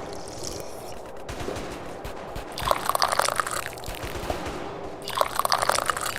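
Tea being sipped with a slurp, twice, each slurp about a second long and about two seconds apart.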